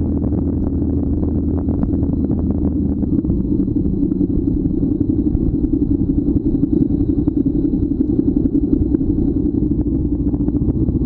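Motorcycle engine running steadily under way, its note shifting about three seconds in.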